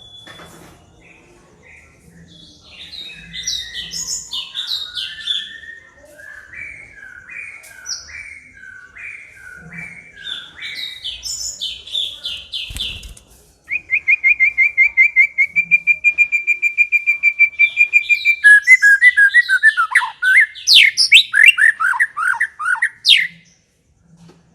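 White-rumped shama singing a varied song of whistled, slurred phrases. About halfway through it breaks into a loud, fast, even run of repeated notes, then rapid sweeping chatter that stops abruptly near the end.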